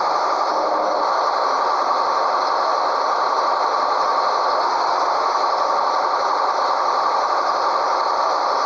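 Scania 113H truck running steadily, an even, unbroken mix of engine and running noise that holds the same level throughout.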